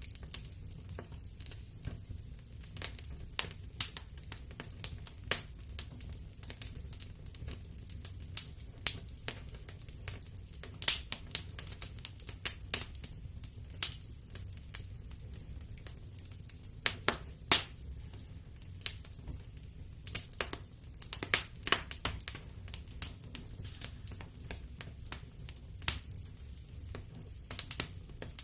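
Wood fire in a fireplace crackling, with irregular sharp pops and snaps, some in quick clusters, over a low steady rumble.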